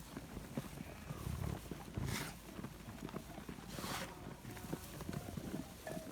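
Animals moving about: many small irregular knocks and scuffs, with two brief hissing noises about two and four seconds in.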